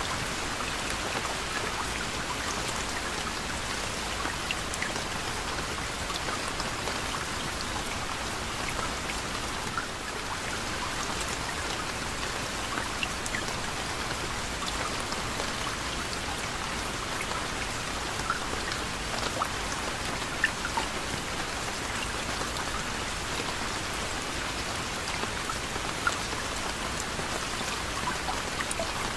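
Steady soft rain, with individual raindrops pattering on a surface.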